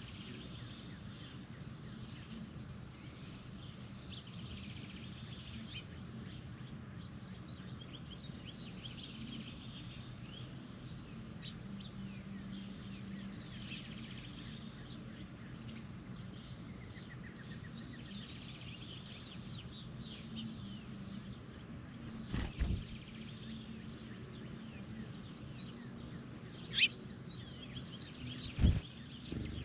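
Birds chirping repeatedly over a steady low hum, with a few sharp knocks in the last several seconds.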